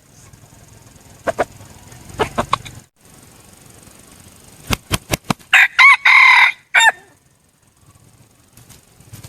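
Red junglefowl rooster crowing once, a short, broken crow about six seconds in. Several short sharp clicks come before it.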